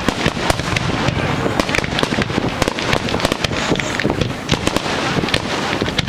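Fireworks going off in rapid succession: a dense, continuous run of sharp cracks and pops, many each second.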